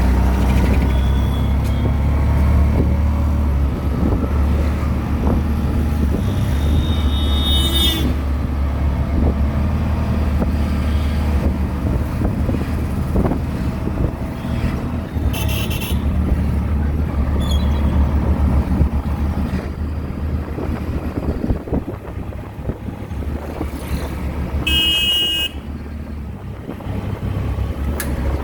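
Auto-rickshaw engine running steadily on the move through traffic, with vehicle horns honking several times, the longest honks about seven seconds in and again near the end.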